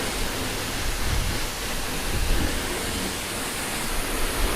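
High-pressure car wash spray wand rinsing soap off a motorcycle: a steady hiss of water spray.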